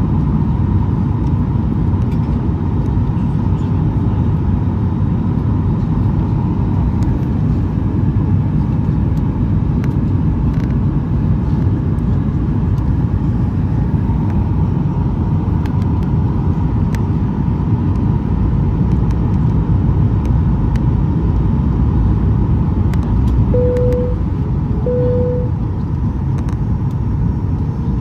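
Steady in-flight cabin noise of a Boeing 737-800: the rush of air and the hum of its CFM56 engines from a window seat above the engine. Near the end, a short cabin chime tone sounds twice, about a second and a half apart.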